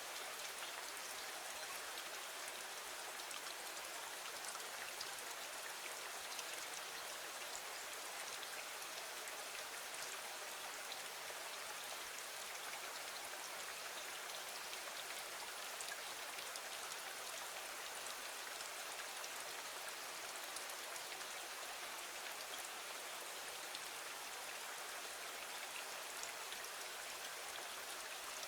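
Steady rain falling against a window: an even hiss of drops with fine patter, unchanging throughout.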